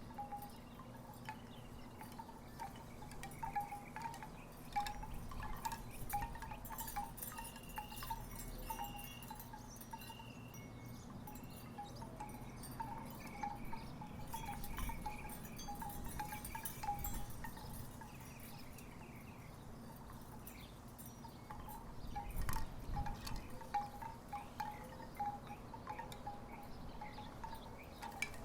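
Wooden tiki wind chimes knocking irregularly in the breeze, giving short hollow notes. A low rumble comes in about two-thirds of the way through.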